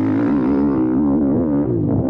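YCF Bigy 190 pit bike's Daytona 190 cc single-cylinder four-stroke engine running hard as the bike is ridden, its pitch wavering up and down with the throttle.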